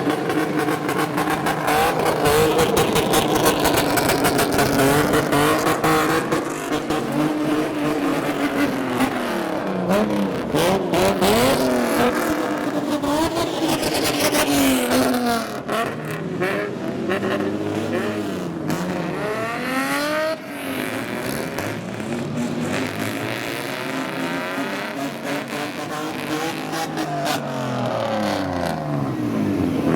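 Loud exhausts of several modified older cars revving and accelerating past, their engine notes rising and falling again and again and overlapping one another.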